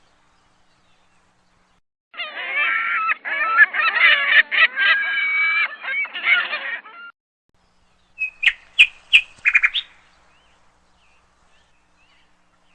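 Birds calling. After two silent seconds there are about five seconds of many overlapping calls, then silence, then a quick run of short, sharp chirps about eight seconds in, and a few faint chirps near the end.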